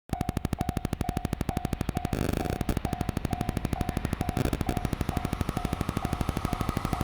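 Japanese level-crossing warning bell ringing about twice a second, starting abruptly, over a rapid, even rattle as a freight train draws near.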